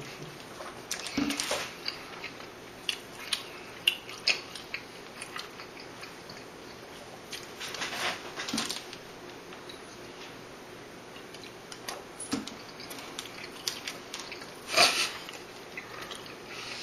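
Biting and chewing while eating double cheeseburgers fast, with scattered short clicks and rustles. The loudest sound is one brief, louder noisy burst about fifteen seconds in.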